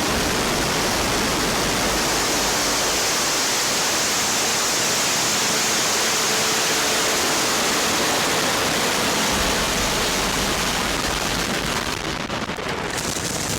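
Soyuz rocket's engines (four strap-on boosters and core stage) firing at liftoff: a steady, dense rushing noise that eases slightly in the last couple of seconds.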